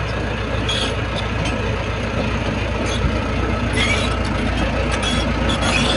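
Crawler bulldozer's diesel engine running steadily with a deep rumble, with a few short, high metallic squeaks or clanks from the machine.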